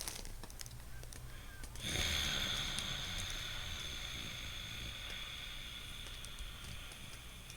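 A long, slow breath drawn or blown through the nose: a hissing rush of air that starts suddenly about two seconds in and fades gradually over about five seconds.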